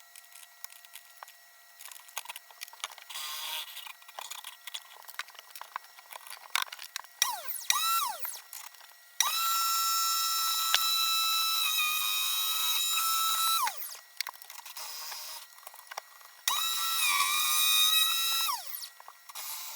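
Makita M585 190 mm circular saw motor mounted in a homemade table saw. After light clicks and knocks, it is switched on in short blips, then runs up to a steady high whine for about four seconds and winds down. It runs again near the end with a brief dip in pitch before winding down.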